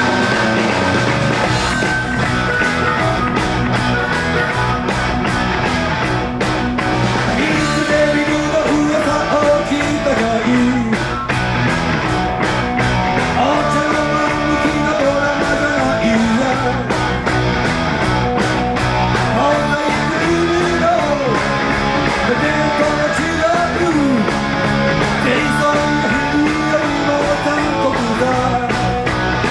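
Live rock band playing an instrumental stretch: electric guitar lead with bending notes over bass and a steady drum kit.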